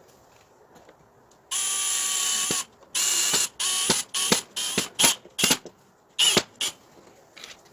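Small electric power tool running in short trigger bursts. One burst lasts about a second, then about eight shorter ones follow, each starting and stopping abruptly.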